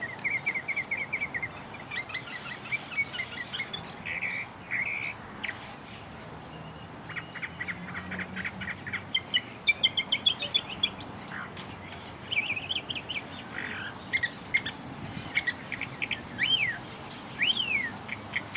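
Several birds chirping and singing: rapid trills of repeated short notes, the loudest run about ten seconds in, mixed with scattered chirps and a few rising-then-falling whistled notes near the end.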